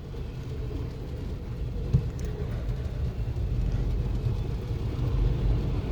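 Freight train rolling past, a low rumble heard from inside a parked car that grows slowly louder, with a single knock about two seconds in.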